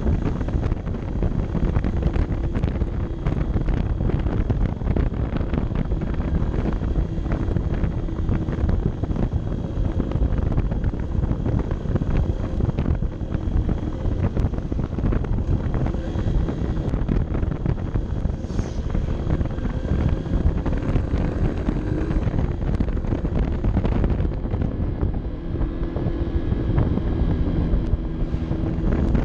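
Honda CB 125 F's small single-cylinder four-stroke engine running steadily while being ridden, its tone shifting a little with speed, under heavy wind rumble on the microphone.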